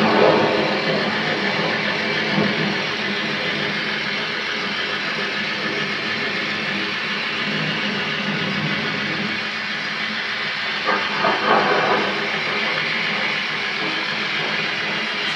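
Model train running along the layout's track: a steady whirring rumble with wheel clatter, and a short run of louder rattles about eleven seconds in.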